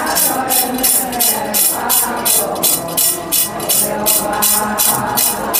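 A rattle shaken in a steady rhythm, about four shakes a second, keeping the beat of a traditional Adi Solung dance song between sung verses. Faint sustained tones sound underneath.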